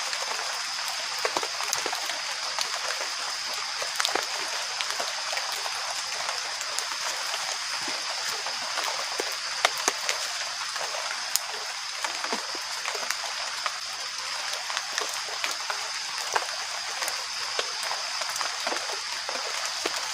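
Steady heavy rain falling, with many close drops tapping and dripping, over a steady high-pitched drone.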